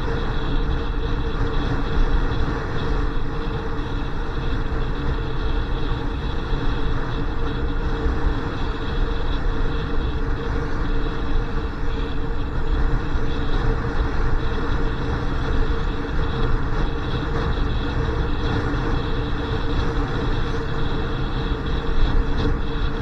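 Motorcycle riding at a steady pace: the engine runs with an even hum under a continuous rush of road and wind noise.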